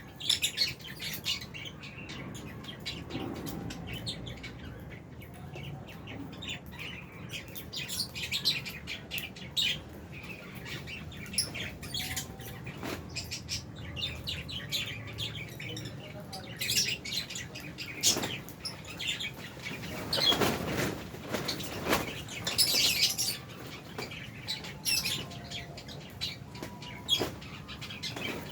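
A flock of lovebirds, albino and Fisher's lovebirds, chirping continuously in many short, high, overlapping calls. Louder, noisier bursts come about two-thirds of the way through.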